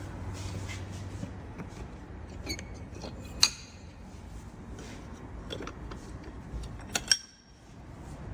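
Hard glass-and-metal clinks from handling the car's side window glass and its fittings. There is a low hum at first, then a sharp clink with a short ring about three and a half seconds in, and two more in quick succession near the end.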